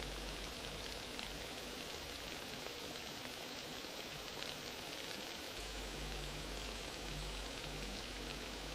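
Wood fire crackling in a fireplace: a steady hiss with many small, quick pops and snaps.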